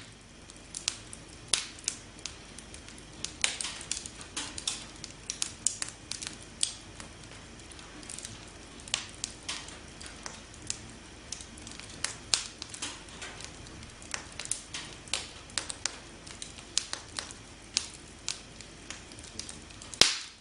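Campfire burning, with frequent sharp, irregular crackles and pops over a low steady hiss; one pop near the end is louder than the rest.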